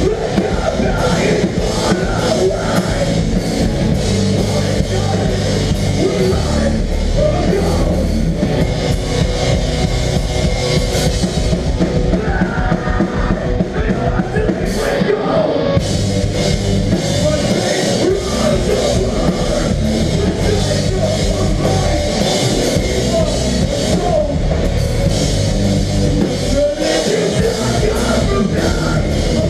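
Melodic hardcore band playing live at full volume, a loud and unbroken wall of guitars and drums.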